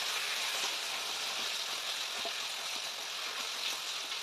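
Chopped onions and tomatoes sizzling steadily in a pressure cooker while a wooden spatula stirs them, with faint taps and scrapes of the spatula against the metal.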